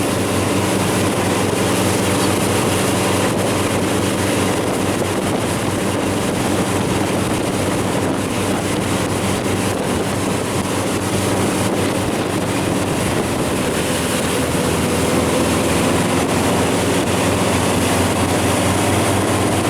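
Watercraft engine running steadily at speed, with wind rushing over the microphone.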